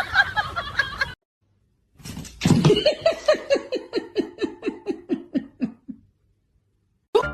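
A person laughing in a long run of short falling "ha" pulses, about three a second, that slow and fade out after about four seconds. A brief mixed noise comes before it, then a short pause.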